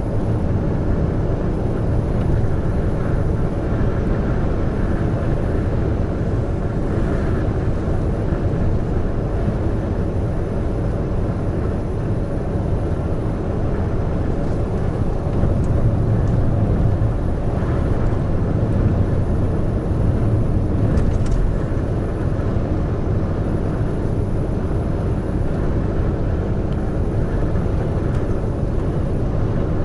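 Heavy truck cruising on an expressway: a steady low engine drone with tyre and road noise, slightly louder for a few seconds past the middle.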